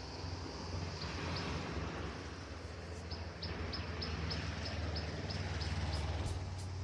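A bird calling in a run of short high chirps, about three a second, starting about three seconds in, over a steady low outdoor rumble.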